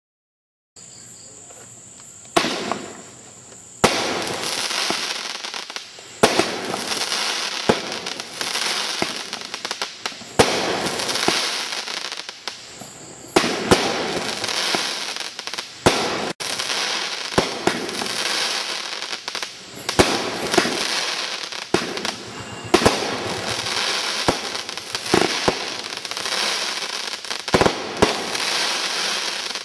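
WINDA Eye Candy 16-shot 1.4G consumer fireworks cake firing, starting about a second in: sharp shots and bursting reports every second or so over a continuous hiss.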